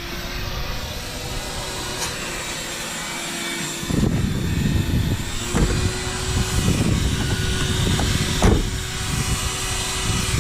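Vacuum cleaner running steadily, a constant hum with hiss, as it sucks dog hair out of a truck's interior; from about four seconds in, irregular low rumbling joins it.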